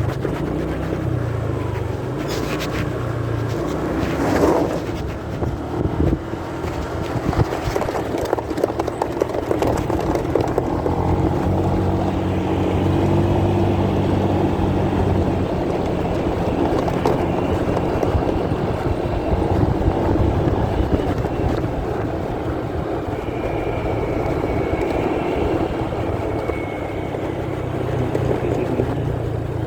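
Motorcycle riding noise picked up by a phone carried in a pocket: a steady, muffled engine hum and road rumble.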